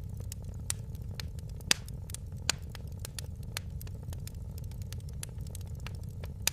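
Wood fire crackling in a fireplace: irregular sharp snaps and pops over a steady low rumble, with two louder pops a little before the middle.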